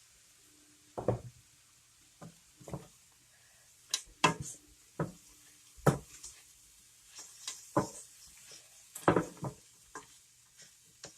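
A spoon stirring flattened rice (poha) in a cooking pan, with irregular knocks and scrapes against the pan about once a second.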